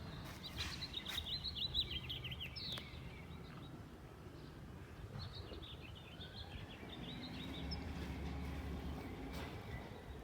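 A songbird singing two quick runs of chirping notes, a few seconds apart, over a steady low engine rumble.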